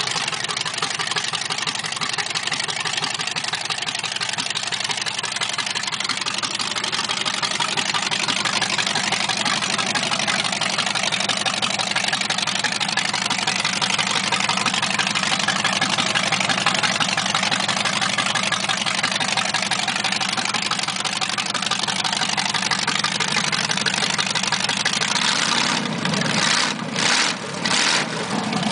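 Chevrolet 283 small-block V8 idling steadily through open, unmuffled individual header pipes. Near the end the note dips and swells a few times as the throttle linkage at the carburetor is worked by hand.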